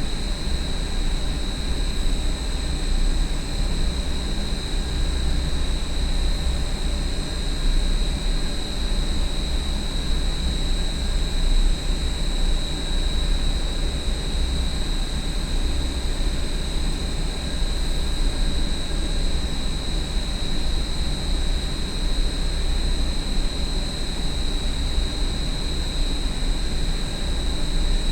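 Large industrial parking-garage exhaust fan running steadily: a deep rumble with a constant high-pitched whine over a rushing of air.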